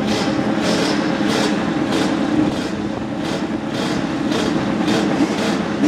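Racing motorcycle engines running, with short throttle blips about every half second.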